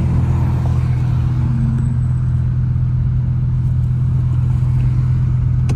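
Car engine running with a steady low drone that holds at the same pitch throughout.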